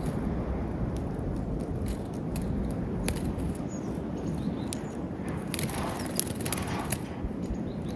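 Outdoor ambience at a snowy bird feeder: a steady low background rumble with scattered small clicks and taps, a brief busier patch of rustling and clicking about six seconds in, and a few faint bird chirps.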